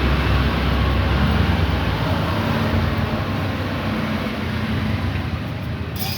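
A steady mechanical drone with a low hum, easing off slightly toward the end, followed by a few sharp metallic clicks near the end.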